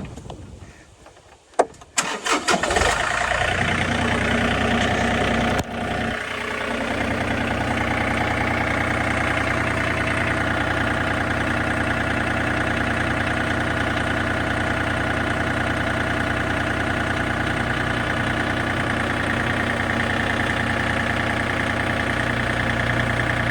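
John Deere tractor engine cranked by its starter and catching about two seconds in, then running steadily.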